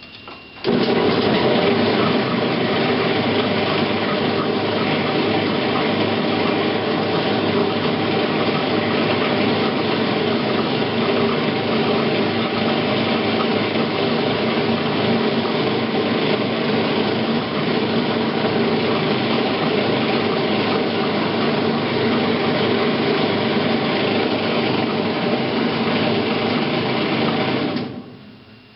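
Admiral AAV7000AWW top-load washer running with a loud, steady mechanical noise that cuts in suddenly and dies away near the end. A new drive belt has not cured the noise.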